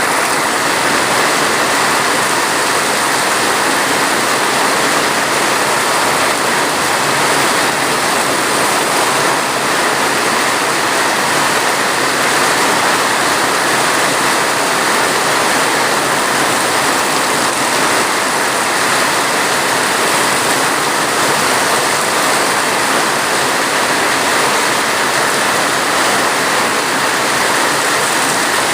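Steady rain falling, an even dense hiss that does not change.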